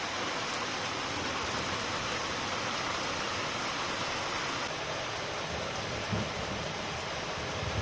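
Steady rain falling, an even hiss with a soft low thump about six seconds in.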